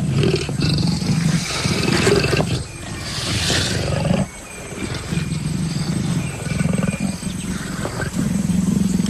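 Leopards growling and snarling in a tense first encounter: a dominant male and a submissive female. The rough growling runs on with two brief lulls, about three and four seconds in, and a hissing snarl between them.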